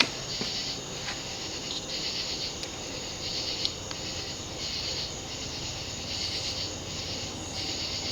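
Codep (View Fan) 52-inch ceiling fan with a cast iron motor and plexiglass blades coasting down after being switched off, giving a soft, hissy swish about once every second and a half over a low, steady hum.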